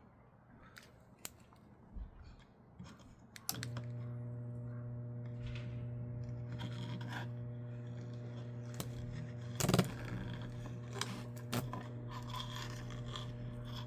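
Microwave oven transformer switched on about three and a half seconds in, humming steadily at mains frequency with its overtones. Scattered sharp crackles and pops of high-voltage arcing as a fractal Lichtenberg figure burns. Before the hum, a few faint handling clicks.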